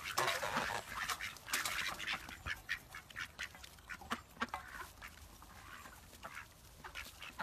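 Ducks quacking in short, scattered calls that grow fainter toward the end.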